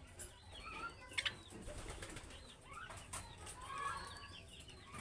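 Budgerigars chattering: a steady run of short chirps and warbles overlapping, with a couple of sharp clicks.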